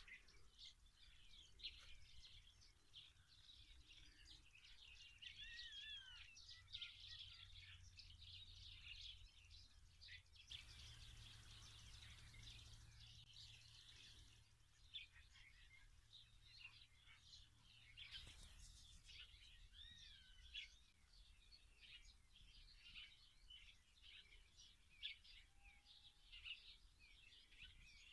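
Faint outdoor birdsong: many small birds chirping and twittering continuously, over a low rumble, with two brief hisses about ten and eighteen seconds in.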